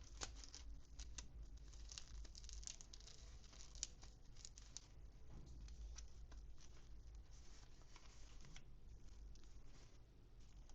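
Faint crinkling and tearing of toy packaging being unwrapped, with quick crackles through the first half that thin to a lighter rustle.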